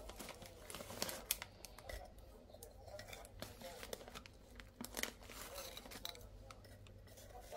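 Packaging being crinkled and torn, with many short sharp crackles and clicks.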